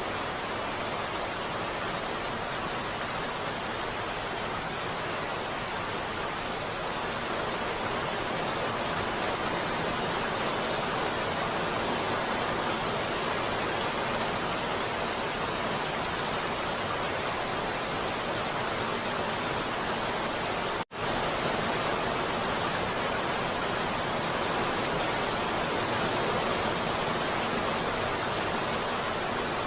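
Heavy rain falling steadily, a dense even hiss with no single drops standing out. It cuts out for an instant about two-thirds of the way through, then carries on unchanged.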